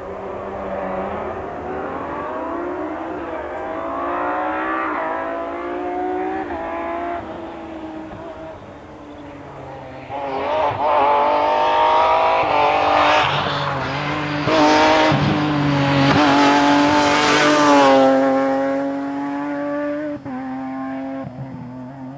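Nissan 350Z's V6 engine at full throttle on a rally stage, the revs climbing and dropping back in steps as it shifts up through the gears. The car gets much louder as it approaches and passes, and near the end its pitch falls as it goes away.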